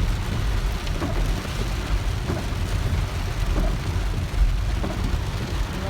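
Heavy rain on a moving car, heard from inside the cabin: a steady hiss of rain over the low rumble of the road and engine.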